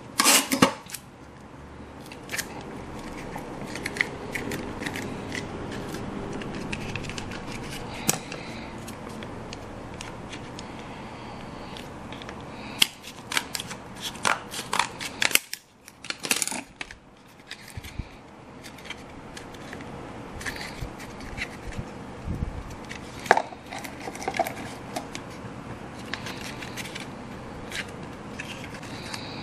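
Scissors cutting a paper cup sleeve: a long run of short sharp snips and paper rustles, with a brief lull about halfway through.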